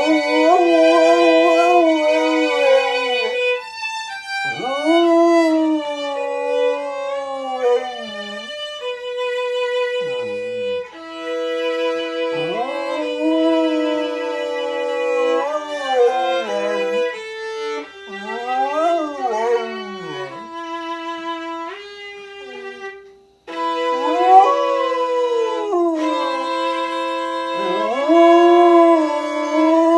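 A wolfdog howling along with a violin: the violin holds long, steady notes while the dog's howls rise and fall over them, with brief yips. Both stop for a moment about two-thirds through, then resume together.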